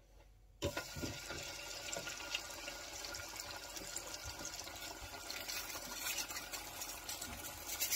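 Chicken strips in a fry basket lowered into hot oil in a deep fryer, starting suddenly about two-thirds of a second in and then sizzling and bubbling steadily.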